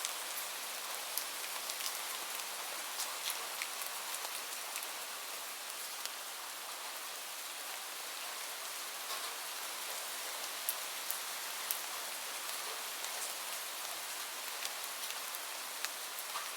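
Steady rain: an even hiss of falling rain with individual drops ticking sharply now and then.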